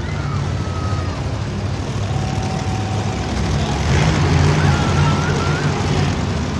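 Monster truck engine running loud, growing louder about four seconds in.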